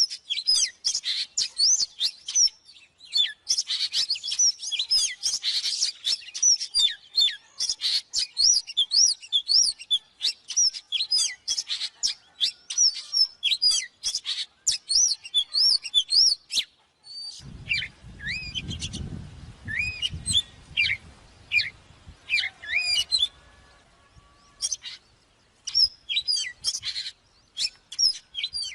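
Oriental magpie-robin singing: a fast, varied run of clear whistled phrases and chirps. The song is dense at first, then changes abruptly about two-thirds of the way in to sparser phrases over a low rumble that fades after a few seconds.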